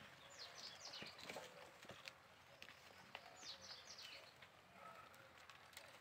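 Small birds chirping faintly in two runs of quick, high, falling chirps, about half a second in and again about three seconds in, with a few faint ticks between.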